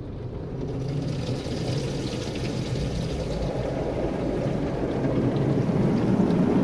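Automatic car wash running over a car: spraying water and foam, growing steadily louder.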